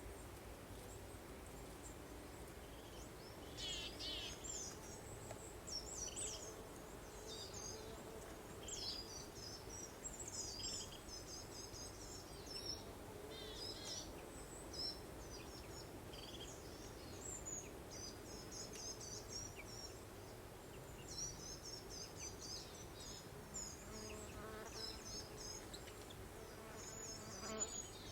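Several songbirds singing in short, high chirping and warbling phrases, coming every second or two, over a steady low background drone.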